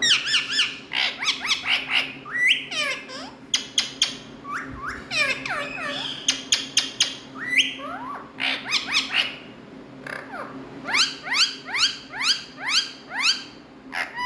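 Indian ringneck parakeets calling: a busy string of sharp chirps and squawks, many sliding up or down in pitch, with a fast run of rising calls near the end.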